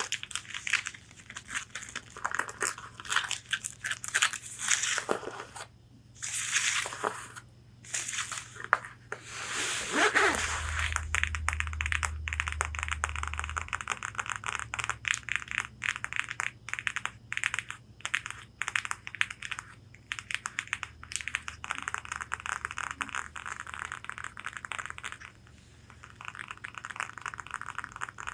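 Long fingernails scratching and tapping on corset fabric. At first the sound comes in separate scratchy strokes. From about ten seconds in it becomes a fast, dense run of nail taps.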